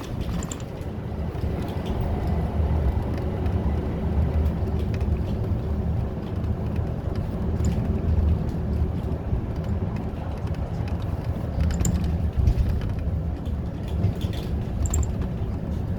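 City bus driving, heard from inside the cabin: a steady low engine and road rumble with occasional light clicks.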